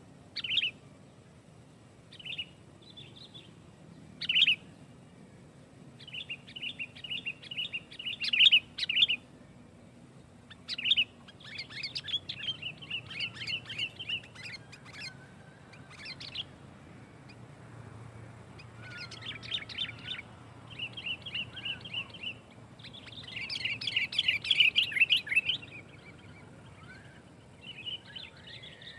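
Sooty-headed bulbul (kutilang) calling in phrases of rapid, closely packed chattering notes, again and again with short pauses, loudest in two bursts about a third of the way in and near the end.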